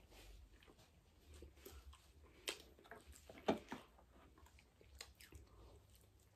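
Close-up chewing and biting of a pizza slice: soft wet mouth sounds and small clicks, with louder smacks about two and a half and three and a half seconds in.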